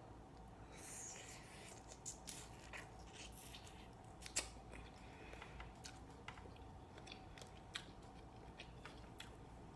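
Close-miked eating of a shrimp and mussel seafood boil: scattered small clicks, crackles and wet chewing, with a sharper click about four seconds in and another near eight seconds.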